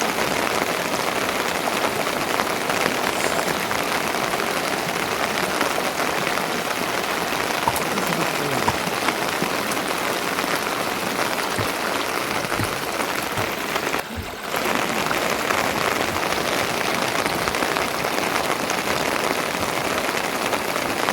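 Steady rain falling on a surface, an even hiss that briefly drops away about fourteen seconds in.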